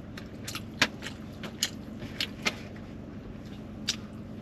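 Close-miked chewing of a burrito, with several sharp wet mouth smacks and clicks, the loudest about a second in.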